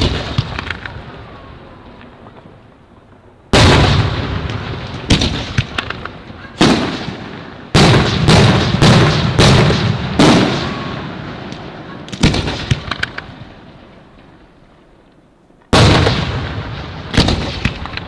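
Aerial firework shells bursting with loud bangs, about a dozen in all, each echoing away over a second or two. Midway a rapid volley of five goes off in quick succession, with smaller crackles after some of the bursts.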